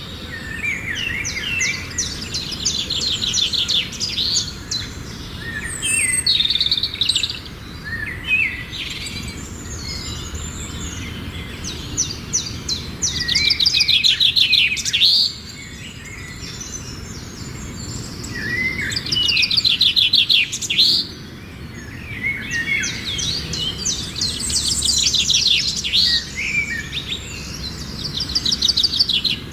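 Songbirds singing in repeated phrases of rapid, trilling chirps, each phrase lasting a second or a few and returning every few seconds, over low, steady background noise.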